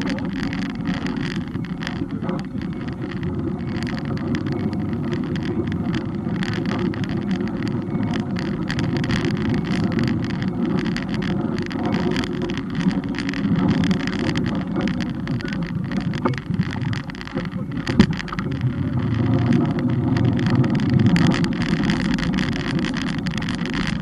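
Steady rumble of wind and road noise on a bike-mounted camera while riding, with frequent small rattles and one sharp knock about 18 seconds in.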